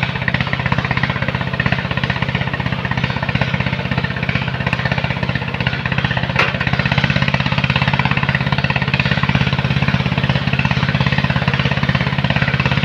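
Engine of a sand-loading machine running steadily with a rapid, even pulsing beat and a low hum; one short click about six and a half seconds in.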